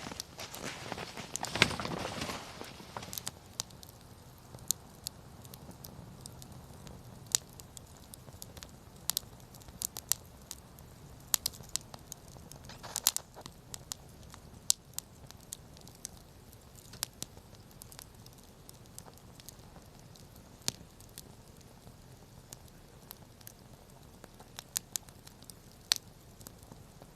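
Wood campfire crackling, with scattered sharp pops and snaps over a low steady hiss. For the first few seconds a louder rustling, crunching noise runs over it.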